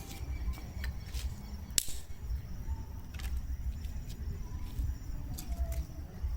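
Wood bonfire burning with scattered sharp pops and crackles, one loud pop about two seconds in, over a low rumble.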